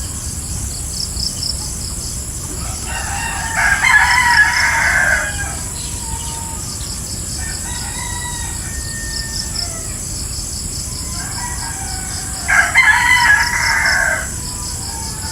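A rooster crowing twice, the crows about nine seconds apart, each lasting about two seconds. Underneath runs a steady, high, pulsing insect chorus, with a few faint bird chirps between the crows.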